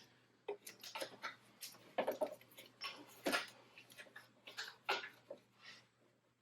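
Scattered, irregular clicks and light knocks of hand work at the engine, as the number 4 spark plug wire is pulled off and the spark plug is got at.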